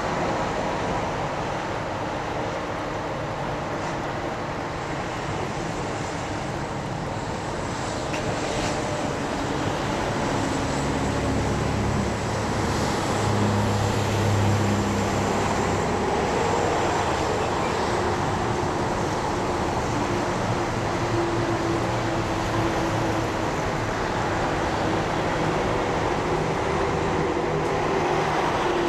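Diesel locomotive engine running with a steady low drone, its pitch shifting a little and growing slightly louder about a third of the way through.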